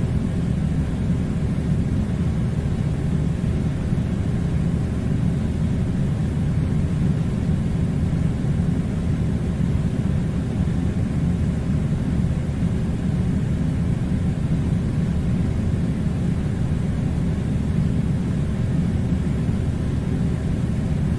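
Steady low rumbling noise that does not change.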